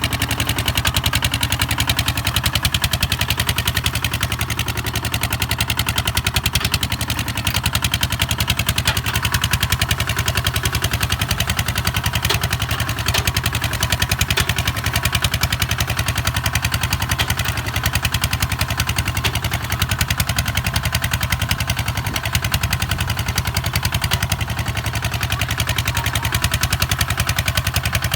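Kubota ZT 155 DI single-cylinder diesel walking-tractor engine running steadily with a rapid, even putter.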